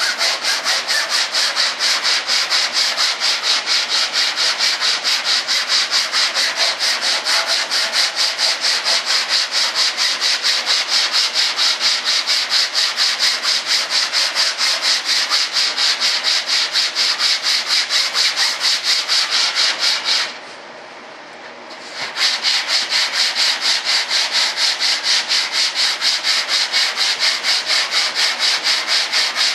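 Hand sanding of the RC B-1 bomber model's part: sandpaper rubbed back and forth in quick, even strokes, about three or four a second. There is a short pause about two-thirds of the way through, then the strokes resume.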